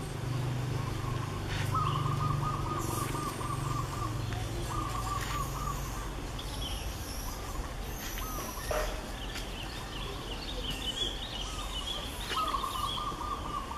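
Outdoor birdsong: a trilling, warbling call repeated in three spells, with higher chirps between, over a low hum that fades about halfway through.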